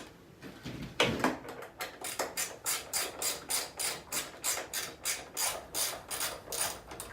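Hand ratchet wrench clicking in steady back-and-forth strokes, about three a second, while bolts are run in on a dirt bike. A louder knock of metal on metal comes about a second in.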